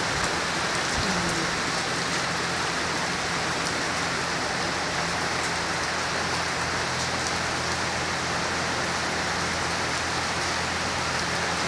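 Rain falling steadily on a concrete driveway and wet yard, an even, unbroken hiss of drops splashing on pavement.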